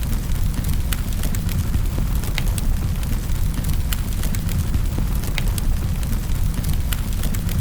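Wood fire burning in a fireplace: a steady low rumble of the flames with sharp, irregular crackles and pops, one or two a second.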